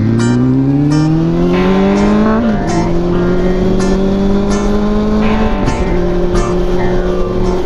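Honda CB400SF's inline-four exhaust through a WR'S slip-on muffler, rising in pitch under acceleration for about two and a half seconds, then dropping at a gear change and holding a steady note. A brief dip comes a little over halfway through.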